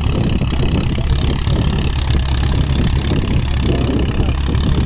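Motorcycle engine running steadily, a loud continuous rumble.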